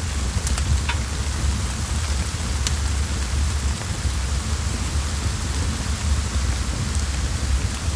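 Steady rain with a low rumble underneath, and a few sharp crackles of a wood fire scattered through it.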